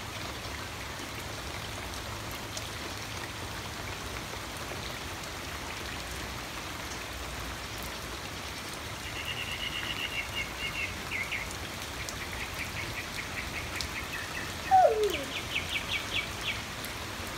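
Steady rain falling on a swimming pool and wet patio. Birds chirp in quick trills around the middle and near the end, and a short falling whine, the loudest sound, comes about fifteen seconds in.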